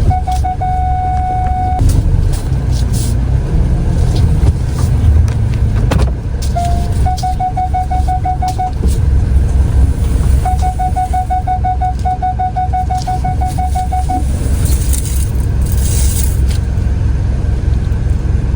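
Car engine and tyre rumble heard from inside the cabin while the car is slowly manoeuvring, with a parking-sensor warning over it: a continuous tone at the start, then two runs of rapid beeping, about seven beeps a second, signalling an obstacle very close. A short hiss about fifteen seconds in.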